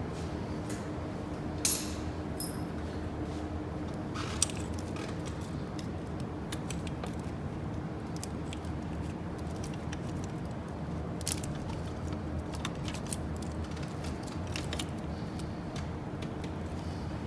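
Scattered metallic clicks and clinks of hand tools and small engine parts being handled during engine disassembly, the sharpest about two and four seconds in, over a steady low hum.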